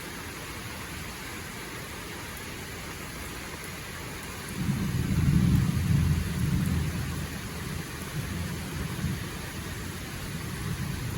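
Steady rainfall, with a low rumble of thunder that swells suddenly about halfway through and then slowly dies away.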